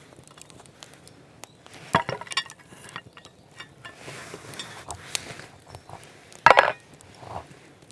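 Dishes and cookware clinking and knocking as a meal is set out, with a burst of clatter about two seconds in and the loudest clink, ringing briefly, about six and a half seconds in.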